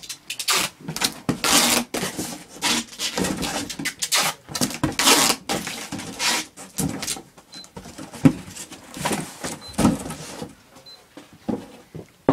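Handling noise: irregular rustles, knocks and scrapes of things being moved about, thinning out after about ten seconds. Three short high beeps from a laser distance measurer come in the second half.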